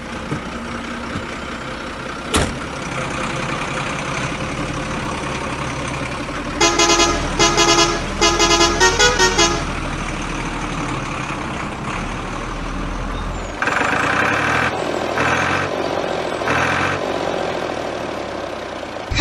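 Truck engine running steadily, with a burst of quick horn honks about a third of the way in and three longer, softer tones later on.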